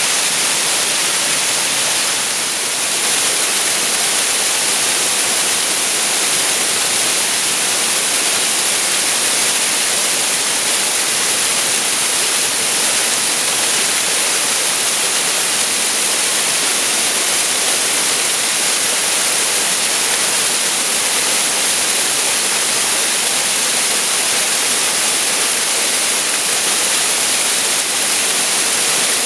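Waterfall pouring steadily, a loud, even rush of falling water with a bright hiss.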